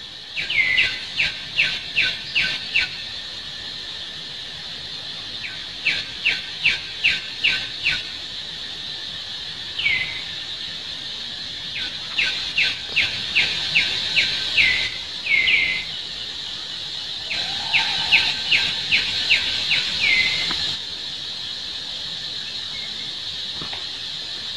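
A bird calling in runs of five to seven short, quick downward-slurred notes, about two or three a second, with pauses of a few seconds between runs. A steady high insect drone runs underneath.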